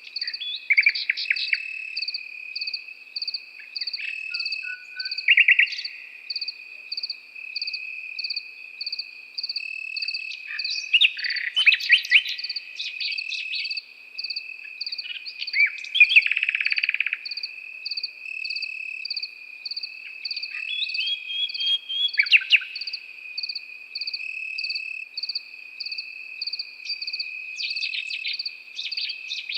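Crickets trilling steadily, with a second insect chirping in an even rhythm, while a nightingale sings short varied phrases of trills and whistles every few seconds.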